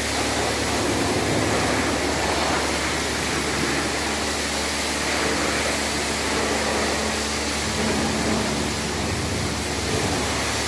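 Steady hiss of water spraying from a high-pressure washer at a car wash, unbroken, over a low steady hum.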